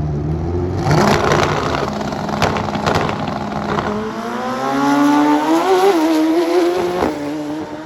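Drag-racing motorcycle launching hard off the start line about a second in, engine at full throttle, then its note climbing in pitch as it pulls away down the strip, with a sudden break in the note near the end.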